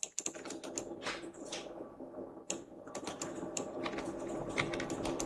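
Computer keyboard and mouse clicking irregularly, many short clicks, over a steady background hum.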